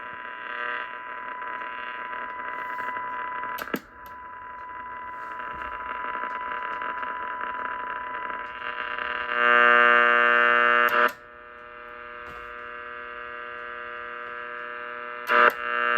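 Marconi Atalanta receiver's loudspeaker giving a steady test-signal tone buried in a harsh electrical buzz of interference from switch-mode power supplies and LED lights. Clicks of switching come about four seconds in and about eleven seconds in, and the buzz jumps much louder for a while around ten seconds in and again near the end as the noise limiter is taken in and out.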